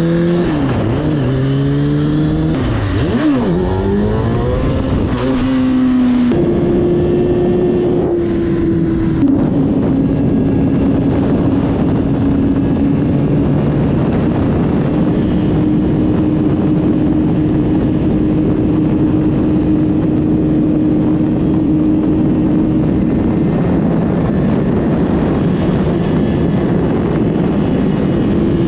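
Motorcycle engine under way: revs rising and falling several times over the first six seconds or so, then holding at a near-steady pitch for the rest, with a heavy rush of wind and road noise underneath.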